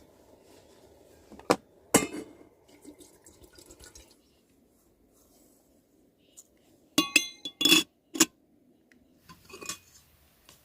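Camp dishes clinking as cups and a pot are handled for tea: a couple of sharp clinks early, then a quick run of ringing clinks about seven to eight seconds in.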